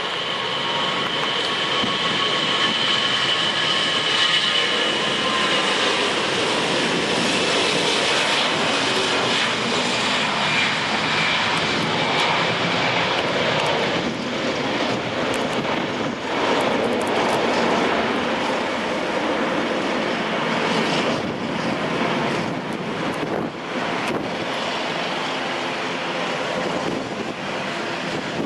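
Airbus A321-211 jet airliner's engines running at high power, a loud steady roar. A whine in the first few seconds fades as the roar goes on.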